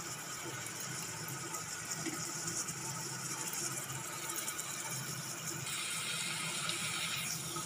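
Chopped onion and ginger sizzling in hot oil in a pressure cooker, a steady hiss that grows a little louder about six seconds in.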